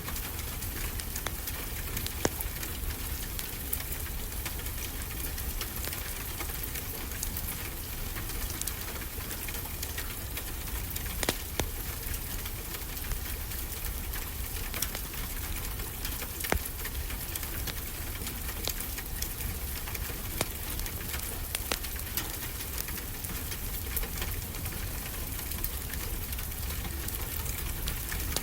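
A wood fire in a fireplace crackling, with frequent small clicks and occasional louder pops, over a steady hiss and low rumble of ocean surf.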